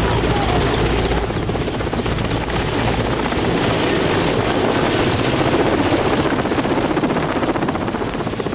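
Crop-spraying aircraft running steadily, heard loud from on board, with a fast, even pulsing to the noise.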